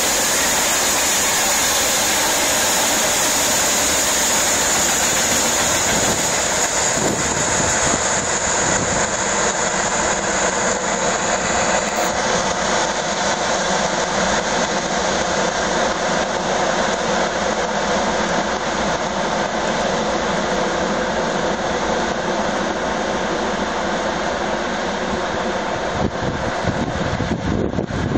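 Freight train of tank wagons rolling past: a steady rumble and rattle of wheels on the rails, with a high whine that fades away about twelve seconds in.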